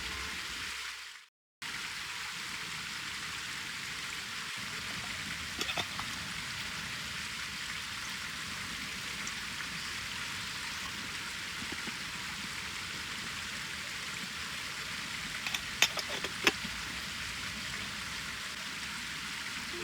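Wood campfire burning in a fire stand: a steady hiss with a few sharp crackles and pops, mostly about six seconds in and again near sixteen seconds.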